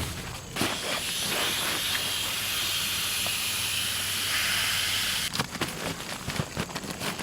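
A steady hiss that lasts about four and a half seconds and cuts off abruptly, followed by a few light knocks and rustles.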